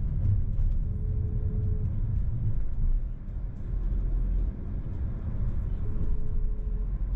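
Car driving on the road: a steady low rumble of engine and tyres, with a short faint hum heard twice.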